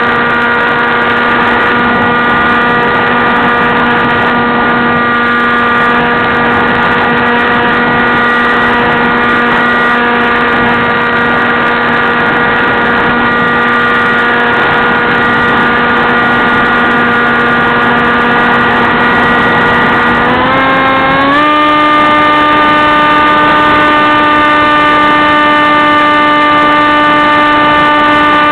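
AXN Clouds Fly RC plane's electric motor and propeller whining steadily in flight over a rush of air. About 20 seconds in, the pitch climbs quickly to a higher note and holds there, as the throttle is raised.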